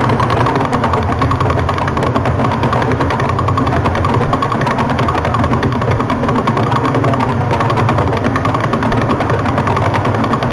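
The Vela pulsar's radio signal converted to sound: a rapid, steady train of pulses, about eleven a second, over a loud hiss, with a steady tone running through it.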